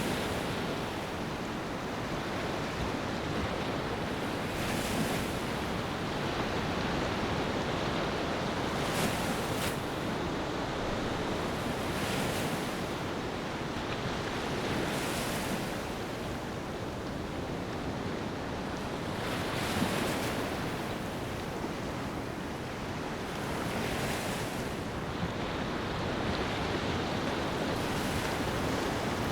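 Ocean waves washing onto a beach: a steady rush of surf with a fresh wave surging in every three to five seconds.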